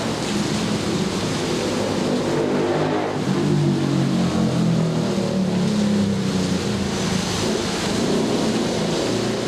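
Steady rain with a long low rumble of thunder that swells through the middle and then eases off.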